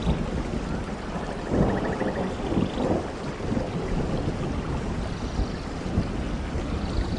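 Steady rain with low rolling thunder, the rumble swelling about a second and a half in and easing after about three seconds.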